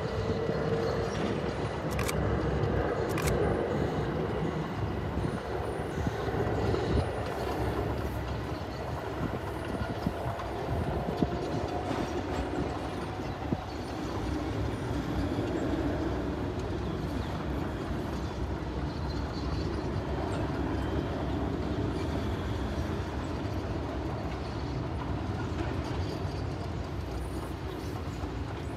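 Electric passenger train running over the station approach tracks: a steady rumble of wheels on rail with a faint hum that drifts in pitch, and a few sharp clicks in the first half.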